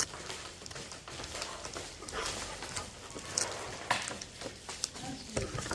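Irregular light clicks and rattles of plastic permanent markers being handled and packed by hand.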